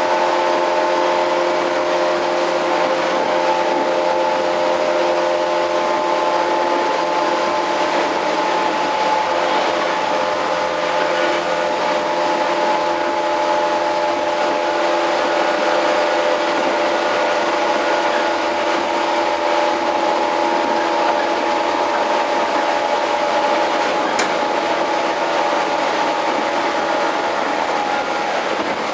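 Running sound inside a JR 115-series electric multiple unit motor car (MoHa 114-102) at a steady speed. The traction motors give a steady whine of several tones over the noise of wheels on rail.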